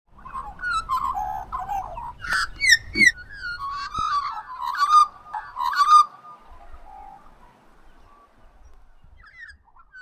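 A bird calling: a rapid run of loud, warbling calls for about six seconds, then only faint calls.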